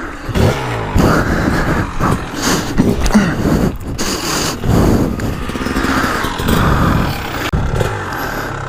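Dirt bike engine revving up and down unevenly, the throttle opened and closed repeatedly as the bike is worked over rough ground.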